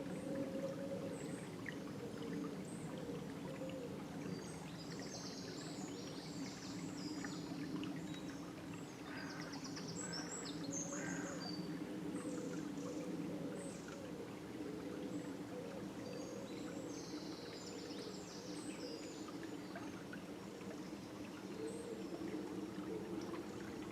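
River water flowing steadily, with birds calling in several short flurries of high chirps above it.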